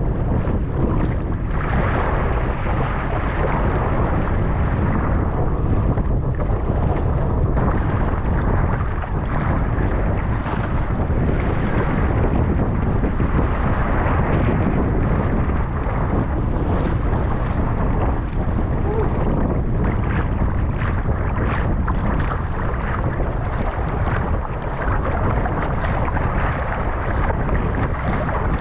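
Strong wind buffeting the microphone over the rush of choppy water and waves, loud and steady throughout.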